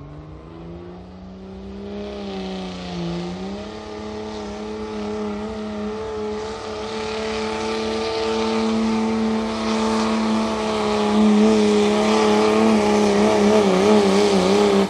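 Turbocharged diesel pickup truck's engine pulling the sled at high rpm: the pitch climbs over the first few seconds, then holds steady near full throttle, with a hiss above the engine note and the sound growing louder as the run goes on. The engine's pitch wavers slightly near the end, and the sound cuts off suddenly.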